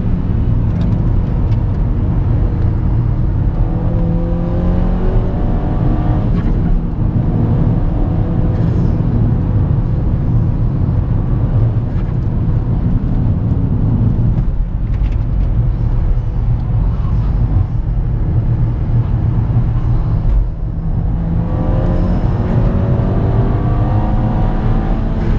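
Tuned Seat Leon Cupra 1P's turbocharged 2.0-litre four-cylinder engine and exhaust, heard from inside the cabin at high speed over steady road and wind noise. The engine note climbs in pitch under hard acceleration several times, with brief dips where the throttle eases or a gear changes, the clearest about 20 seconds in.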